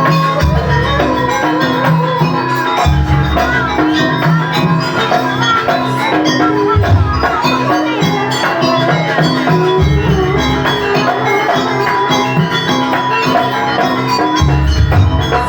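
Jaranan dance accompaniment: a gamelan-style ensemble with percussion, repeated deep gong-like low strokes every few seconds, and a wavering melody line above.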